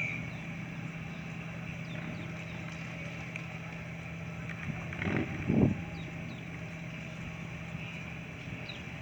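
Boat engine running steadily with a low hum. A brief louder sound comes about five seconds in, and there are faint high chirps.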